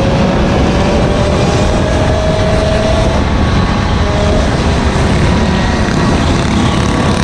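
Small gas engine running under way, its pitch rising slowly over the first three seconds, over heavy wind rumble on the microphone.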